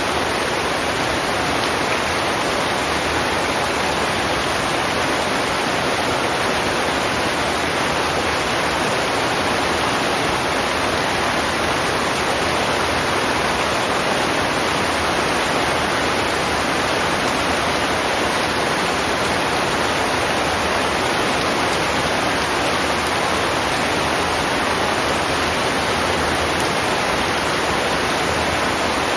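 Heavy rain falling steadily, an even unbroken hiss with no distinct drops or thunder.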